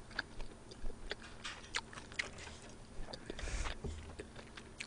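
Close-miked chewing of a mouthful of food, with small scattered clicks of a metal spoon on the dish and a short rush of noise about three and a half seconds in.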